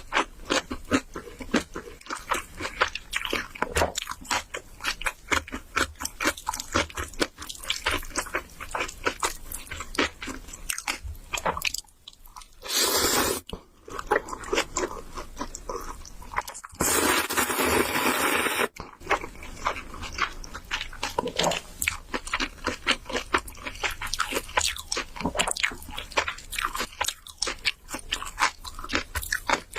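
Close-miked eating: dense wet chewing and biting with crunchy clicks. Partway through it is broken twice by steady hissing slurps of noodles, the second lasting about two seconds.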